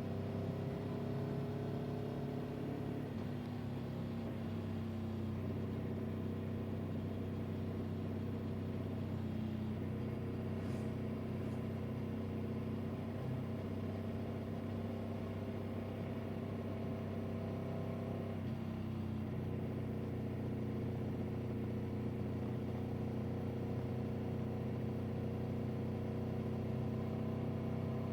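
A motor vehicle's engine drones steadily while driving. Its pitch shifts a couple of times and climbs near the end as it speeds up.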